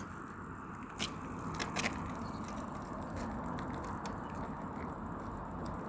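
Cars passing on a road, heard as a steady rush of tyre and road noise, with a few light clicks about one to two seconds in.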